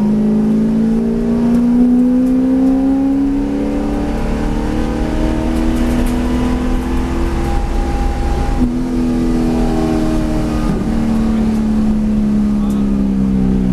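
V8 race car engine under way on track: the revs climb steadily over the first few seconds, hold high, dip briefly about two-thirds in, then fall away near the end as the car slows.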